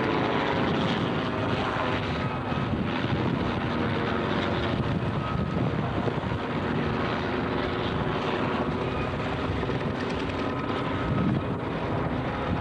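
A helicopter flying an aerobatic display, its rotor and engine running at a fairly steady level throughout.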